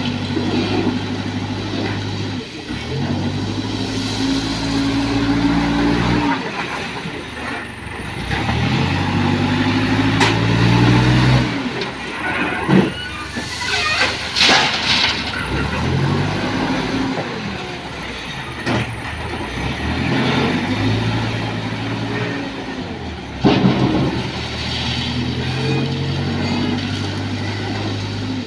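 Backhoe loader's diesel engine revving up and falling back over and over as it works its hydraulics, with a few sharp knocks and a brief noisy rush about halfway through.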